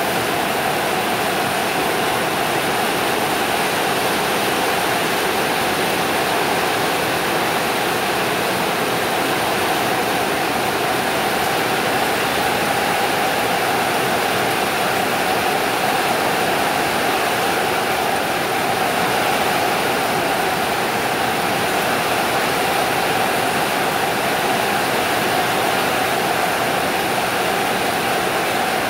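Heavy tropical downpour falling steadily on corrugated metal and tiled roofs: a dense, even hiss with no let-up.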